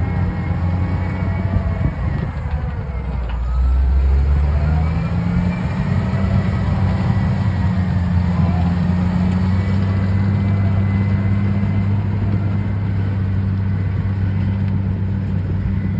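Komatsu D65PX-16 bulldozer's diesel engine running steadily, its note shifting and briefly getting louder about four seconds in, with a faint whine that dips and rises in pitch.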